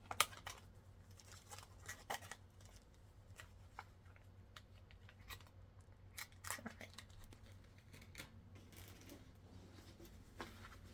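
Scattered sharp clicks and short rustles of a diamond painting canvas and its packaging being handled and unrolled. The loudest click comes just after the start, and a second cluster comes a little past the middle.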